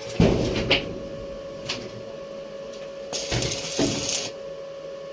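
Pieces of metal clanking and knocking together several times, then about a second of harsh hiss, over a steady hum.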